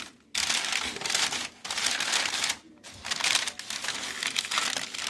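Paper crinkling and rustling in four long bursts as a pigeon cage is lined with paper.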